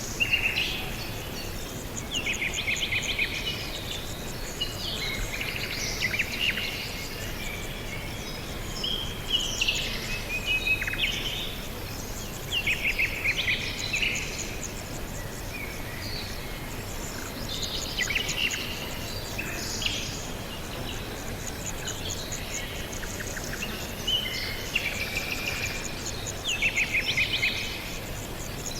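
Several small birds chirping and trilling in short repeated phrases every second or two, over a steady background hiss.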